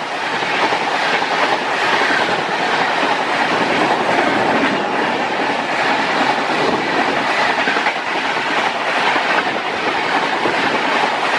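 Passenger coaches of an express train rushing past at full speed on the adjacent track, heard close up from a train beside it: a loud, steady rush of wheels on rails with clattering over the rail joints.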